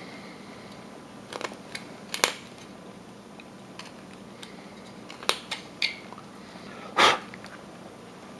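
Carving knife taking deep cuts in wood: scattered short, sharp slicing clicks, with a louder, longer cut about seven seconds in.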